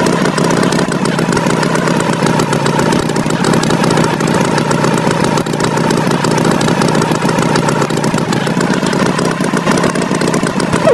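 Tractor engine sound effect running steadily at a constant speed, an even, continuous mechanical drone.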